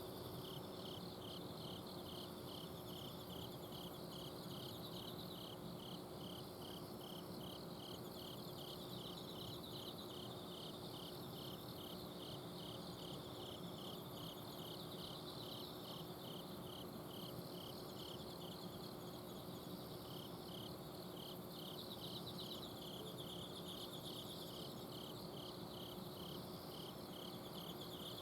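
Several autumn insects, crickets among them, chirping together: one sings a steady run of chirps at about two to three a second, briefly pausing about two-thirds of the way through, over higher, fainter trills. Under them runs the steady low hum of an air-conditioner outdoor unit.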